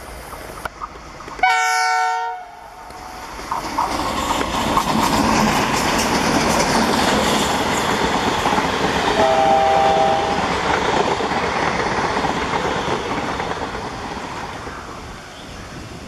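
Diesel locomotive horn of an Indian Railways ALCO WDG 3A sounds one short multi-tone blast about a second and a half in. A passenger train then rushes past with the rumble and clickety-clack of coaches over the rail joints, building up and fading away. A second, fainter horn blast comes around the middle.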